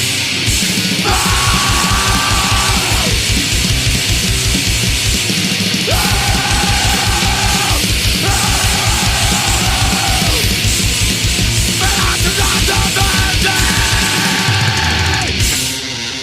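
Swedish crust punk song: fast pounding drums under heavily distorted guitars, with shouted vocals in stretches. Near the end the drums and bass briefly drop away.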